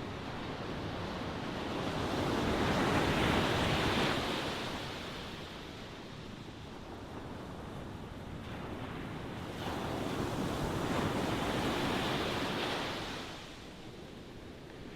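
Ocean waves surging and washing in: two waves swell up and fade away, about eight seconds apart.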